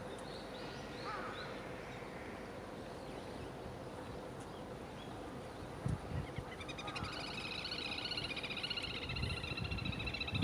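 Wild birds calling: a few scattered high chirps at first, then from about six seconds in a dense run of rapid, wavering high calls.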